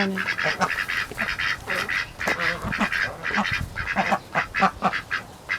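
A small flock of domestic ducks quacking repeatedly, many short calls overlapping several times a second.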